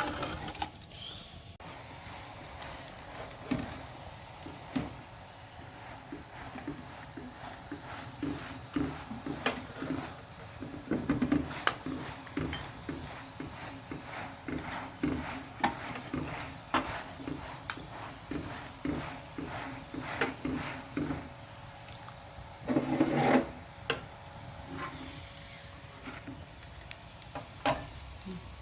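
Cooking spoon stirring and scraping in a pot of chicken and potato curry, with irregular clinks and knocks against the pot over a faint sizzle. A louder clatter comes about three-quarters of the way through.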